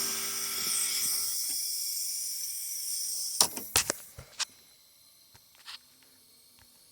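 A high hiss fading out, then a short cluster of four sharp clicks and knocks and one more a little later, as an air chisel is handled and set against the clutch fan. The chisel is not yet hammering.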